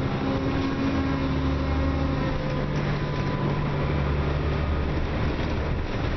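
Dennis Trident double-decker bus's diesel engine and drivetrain running under way, a steady drone whose tones shift in pitch a couple of times.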